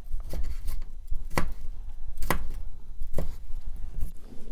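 Kitchen knife cutting bell pepper pieces on a cutting board: sharp knife strikes about once a second, with lighter knocks in between.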